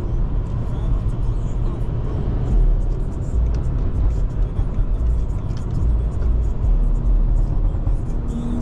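Steady low rumble of a BMW 540i's turbocharged inline-six and its tyres on a wet road, heard from inside the cabin while driving.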